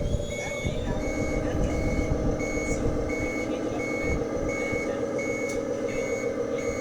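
Reversing beeper of a 1:14-scale RC Hino truck's sound module, an even high beep repeating about once every 0.7 seconds over the module's steady diesel engine hum.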